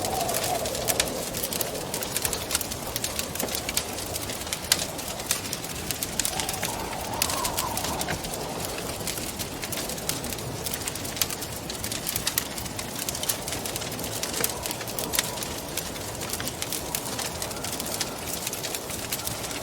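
Wood fire crackling with frequent small pops over a steady rush of wind; the wind rises into a soft howl with a wavering pitch at the start and again about seven seconds in.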